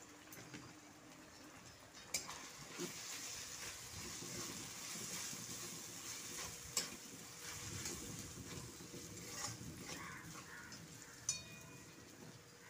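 Onions, garlic and ginger paste frying in oil in a metal kadai, sizzling as a spatula stirs and scrapes them around the pan. The stirring picks up about two seconds in, with a few sharp clicks of the spatula against the metal.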